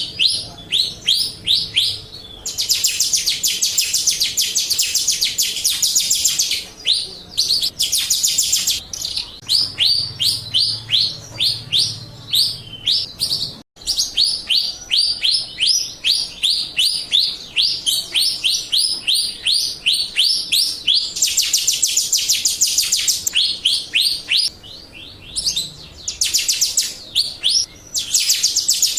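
Jalak Rio bird song: a long run of quick, high, downward-sweeping whistled notes, several a second, broken by stretches of fast dense trilling. The song cuts out for an instant about halfway through.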